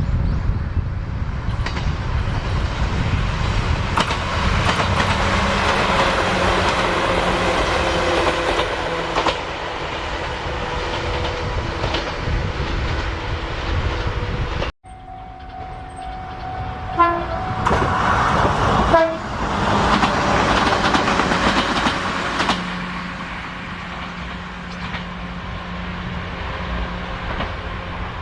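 Chichibu Railway train running past on the track with a steady rumble of wheels and running gear. The sound cuts off abruptly about halfway, then another train passage follows, with a horn sounding for a few seconds soon after the cut.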